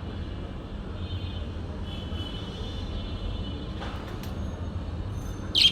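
Small bird chirping: faint thin high twittering over a steady low rumble, then one short, sharp high chirp near the end.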